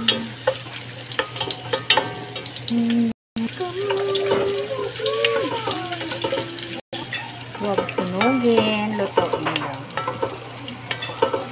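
Red onion, garlic and ginger sizzling in hot oil in an enamelled cast-iron pot, stirred with a wooden spoon that scrapes and clicks against the pot.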